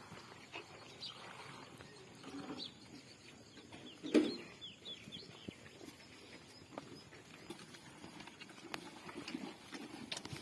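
Farmyard animal sounds: scattered knocks and shuffling, with one loud low sound about four seconds in, followed by a quick run of short bird-like chirps.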